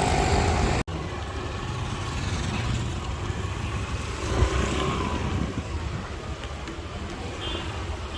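Street traffic: vehicles running past with a steady engine and tyre rumble, after an abrupt cut just under a second in, with one short knock about halfway through.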